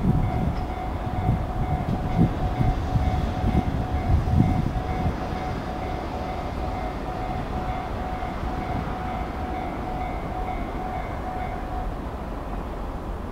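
An Ise Railway diesel railcar pulling away into the distance. Its wheels knock over the rail joints for the first few seconds, then the sound settles into a fading rumble with a steady whine that dies away near the end.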